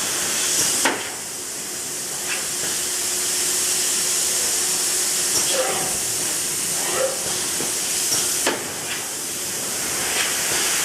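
Steady high hiss from ultrasonic plastic welding equipment, with sharp clicks about a second in and again after eight seconds.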